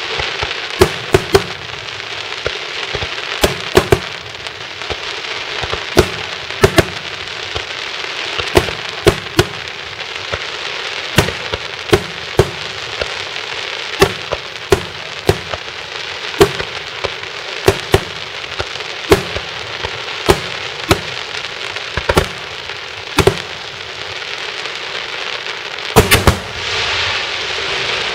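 Daytime fireworks: a steady crackle of small charges with loud, sharp bangs going off about once a second, and a quick cluster of bangs near the end.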